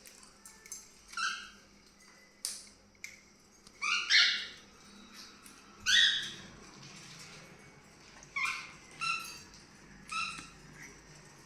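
Pet cockatiels calling: short, sharp chirps and squawks scattered through, the loudest about four and six seconds in.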